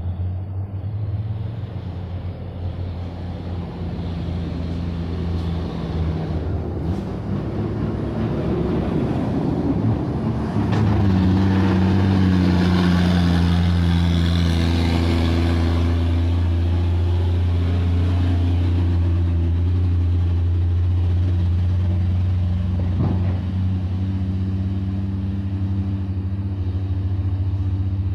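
Heavily loaded dump truck's diesel engine running under load close by. It grows louder and its note steps up about ten seconds in, then holds steady, with a wash of road noise around the loudest part.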